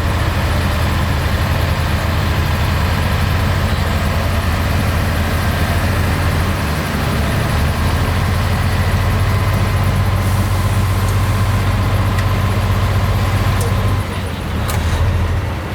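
Heavy diesel engine of earthmoving machinery running steadily at a low, even pitch, dipping briefly near the end.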